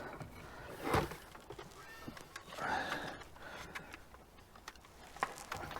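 Scattered light clicks and rustling from hands working wiring and plastic trim at a car's dashboard, with one sharper knock about a second in.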